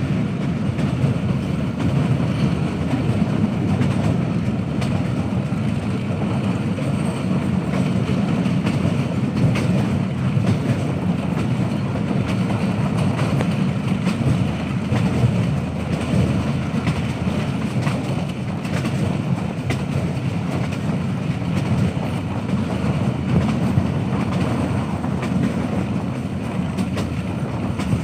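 Passenger train running along the track, a steady low rumble of the moving coaches with light clatter of wheels on the rails.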